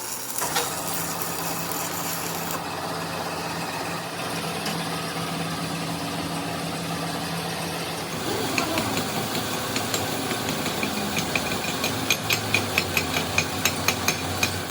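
A machine's motor running steadily. About eight seconds in, its sound changes, and near the end a quick run of sharp, even ticks comes at about four a second.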